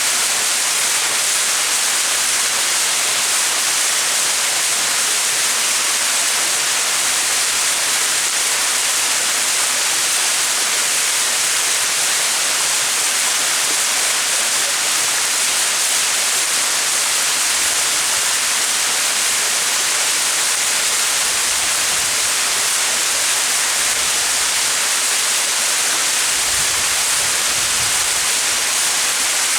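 Small mountain waterfall splashing steadily, an even rushing hiss of falling water, with a little deeper rumble near the end.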